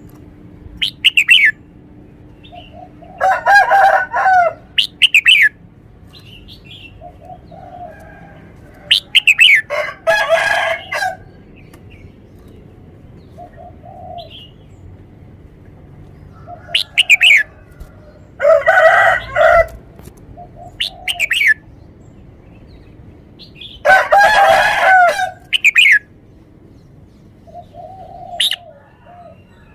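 Red-whiskered bulbul singing short, clear whistled phrases that sweep up and down, repeated every few seconds. Four louder, lower bird calls of one to two seconds each are mixed in between the phrases.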